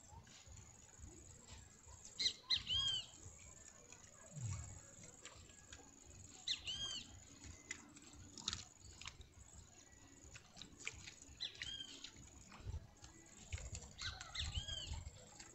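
A bird repeating a short call of two or three arching, looping notes four times, a few seconds apart, over a low rumble and a few faint clicks.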